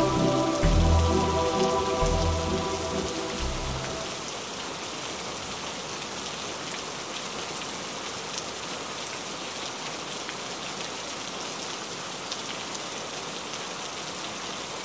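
Steady rain falling. Low, sustained music notes fade out over the first four seconds.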